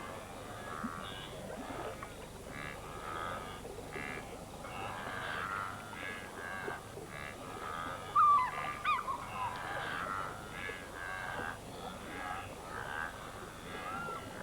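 A wildebeest herd calling: many overlapping short, nasal, honking grunts, with one louder, wavering call about eight seconds in.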